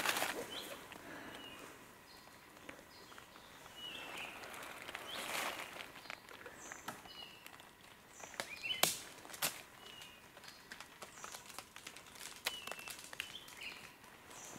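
A songbird repeating a short phrase of quick stepped whistled notes every few seconds, with a few sharp crackles of dry leaf litter.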